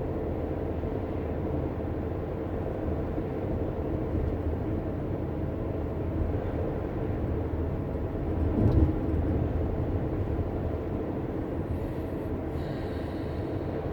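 Steady low road and engine rumble of a moving car, heard from inside. A single louder low thump comes a little past halfway through.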